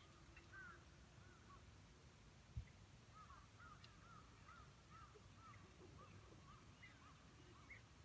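Faint, distant bird calls: a long series of short, arching chirps repeated several times a second, over a low background rumble, with a single dull thump about two and a half seconds in.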